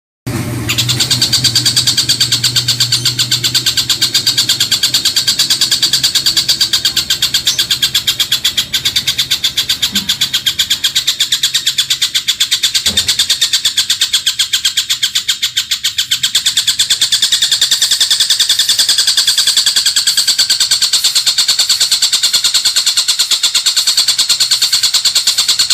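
Rapid, continuous rattling trills of the cililin and tengkek buto birds, an unbroken run of very fast, even notes. It starts abruptly and carries on without pause: masteran audio used to teach cage songbirds.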